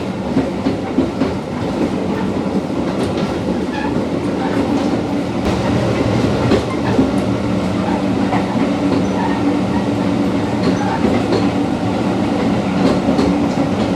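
Passenger train running along the track, heard from on board: a steady rumble with a low hum and scattered knocks from the wheels and carriage.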